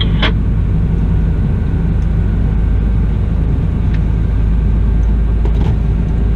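Diesel engine of a Cat 972M XE wheel loader running steadily: an even low drone with no change in pitch.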